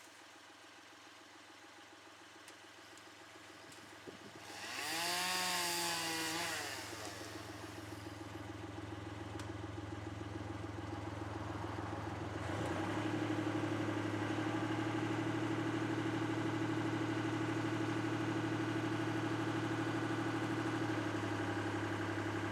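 An engine runs steadily. About five seconds in, a brief louder burst of noise comes with a pitch that dips and rises again. About twelve seconds in, the engine speeds up and then runs steady and louder.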